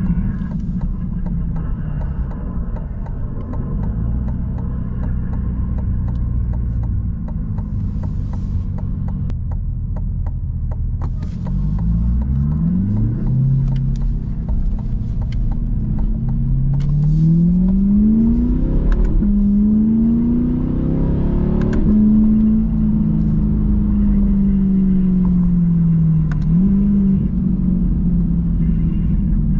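Corvette C8's V8 engine driving along. Its revs climb and fall back through a few upshifts around the middle, then it pulls steadily and slowly eases off, over low road rumble.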